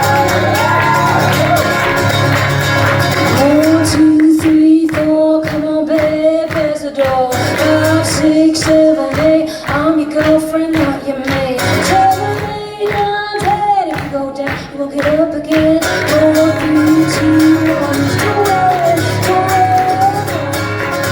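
Live band music with singing. Through the middle of the passage the low bass drops away, leaving a sparser part with a steady beat under long held notes, and the full band returns near the end.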